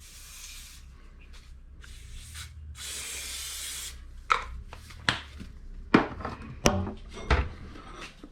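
Aerosol cooking-oil spray hissing onto a plate in three short bursts, the last the longest. A run of light knocks and clatters follows as the can and plate are handled.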